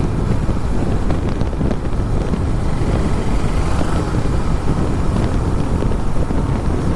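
Wind buffeting a helmet-mounted microphone while riding a KTM Duke 250 motorcycle, its single-cylinder engine running under a steady, loud rush of noise.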